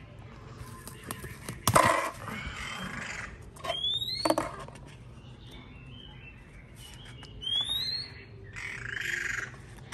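A caged bird gives a rising whistle twice, with a few softer chirps between, over the rustling and two sharp knocks of a paper liner being fitted into a cage tray.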